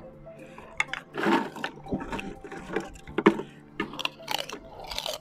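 Close-miked wet chewing and mouth sounds of a person eating, coming in short irregular bursts.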